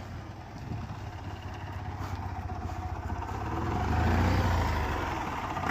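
Car engine running as the car is driven, with a steady low hum that grows louder about four seconds in and then eases off.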